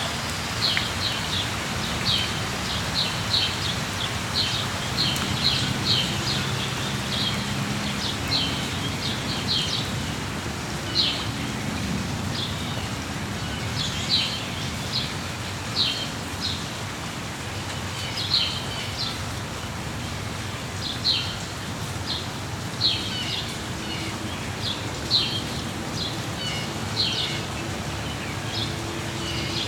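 Small birds chirping in short, high, repeated notes, roughly one call every second or so, over a steady patter of rain.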